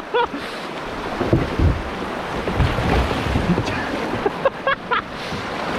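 Rushing river water as a kayak runs through a fast, stick-choked stretch, with wind buffeting the microphone in low thumps between about one and three and a half seconds in.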